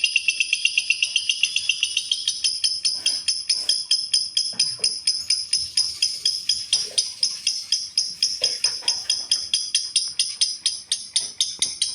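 Lovebird chattering in a long unbroken run of rapid, high chirps, about seven a second at first and slowing slightly toward the end.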